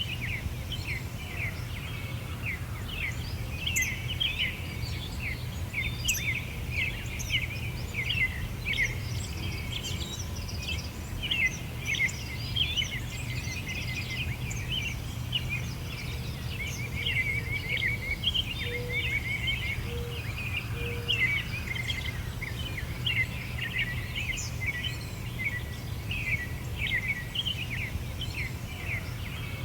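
Many small songbirds chirping and twittering without pause, rapid high notes overlapping one another, over a steady low rumble. Three short, lower notes come in about two-thirds of the way through.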